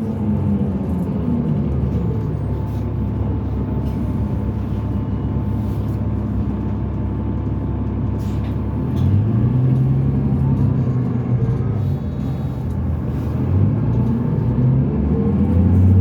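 2005 New Flyer D40LF transit bus on the move, its Cummins ISL diesel engine running under a steady rumble of road noise. The engine note comes up strongly about nine seconds in and is loudest near the end.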